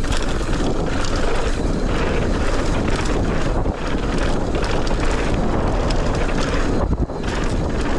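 Wind rushing over the microphone and mountain bike tyres rolling over dirt during a fast downhill run, with a short knock about seven seconds in.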